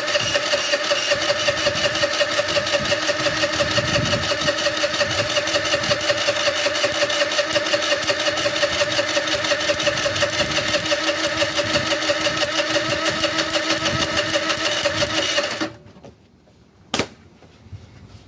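Starter cranking a 50cc Omega scooter engine that will not catch: a steady whine with an even pulse of about three to four beats a second, which stops suddenly about fifteen seconds in and is followed by a single sharp click. The engine is hard to start even though the plug is sparking.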